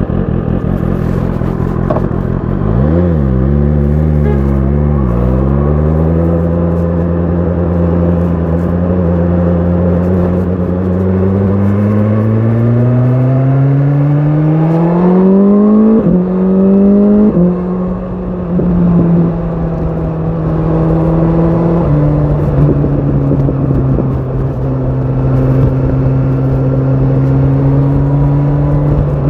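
BMW S1000 RR inline-four sport bike engine running through an Akrapovic exhaust. Its pitch wavers briefly a few seconds in, then climbs steadily as the bike accelerates. It drops sharply twice in quick succession at upshifts about halfway through, then runs at a steady cruise with one smaller drop a little later.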